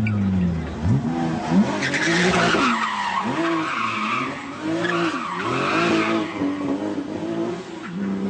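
Supercar engine being revved in a run of short throttle blips, about one a second, the pitch rising and dropping back each time, then settling to a steadier note near the end.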